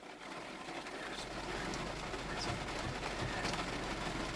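Heavy rain falling on a car, with a low rumble of thunder that comes in about a second in and slowly builds.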